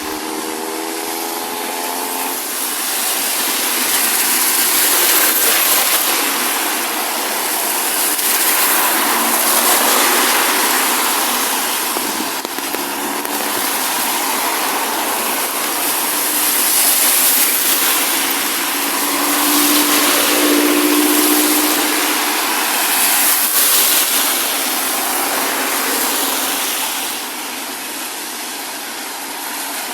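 Steady hiss of rain and wet-road traffic, swelling and fading every few seconds as vehicles pass on the wet tarmac.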